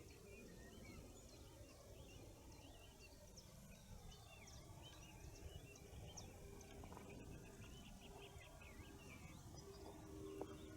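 A faint morning chorus of many small songbirds chirping and twittering at once, with many short notes overlapping, over a low background rumble. Near the end a steady low hum comes in.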